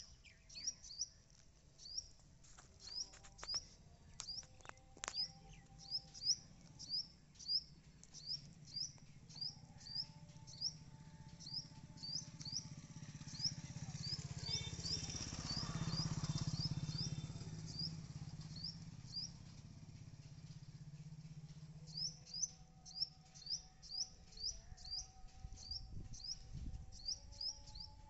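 A bird's short, high chirps, repeated about twice a second, pausing for a few seconds past the middle. In the middle a low rumble swells and fades.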